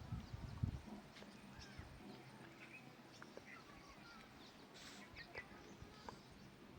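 Faint, scattered bird chirps and twitters over quiet outdoor background hiss.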